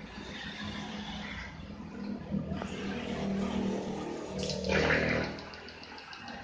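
Four-stroke motorcycle engine running through a racing exhaust, with a louder surge about four and a half seconds in.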